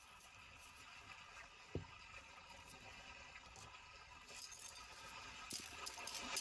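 Quiet handling of small hard objects: a few light clinks and one sharp thump about two seconds in, over a faint steady hiss that grows slightly louder near the end.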